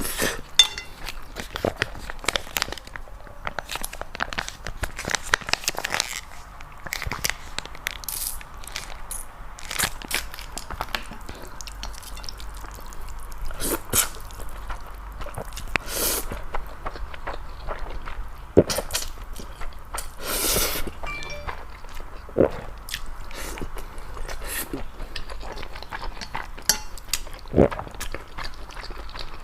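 Close-miked eating: noodles being bitten and chewed, with irregular wet clicks and smacks from the mouth.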